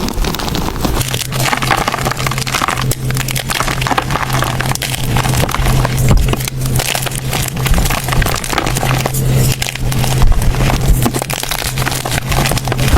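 Blocks of gym chalk being crushed and crumbled by hand, a continuous dense crackling and crunching. A low steady hum runs underneath from about a second in.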